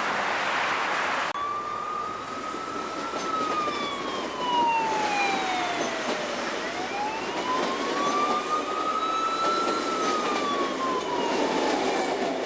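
Emergency-vehicle siren on a slow wail, its pitch rising and falling about once every six to seven seconds over a steady background rumble. It starts abruptly at a cut about a second in; before that there is only a noisy wash.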